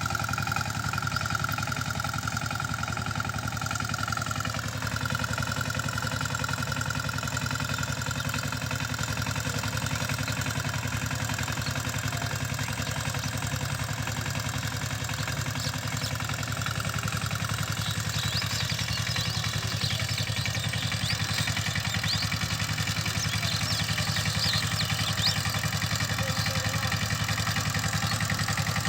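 Single-cylinder diesel engine of a 16 HP power tiller running steadily, with a whine that drops slightly in pitch about four seconds in.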